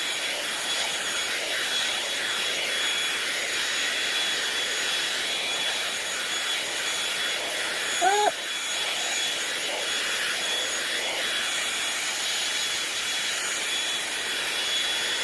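Hot-air brush (hair dryer brush) running steadily: a blowing fan noise with a thin high whine. About eight seconds in, a short vocal exclamation briefly rises over it.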